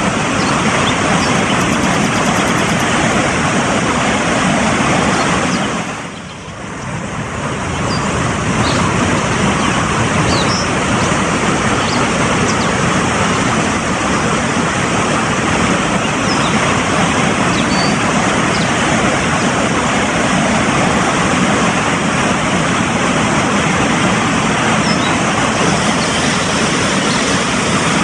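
Fast-flowing mountain stream rushing steadily, dipping briefly about six seconds in. A few faint, short high bird chirps come through now and then.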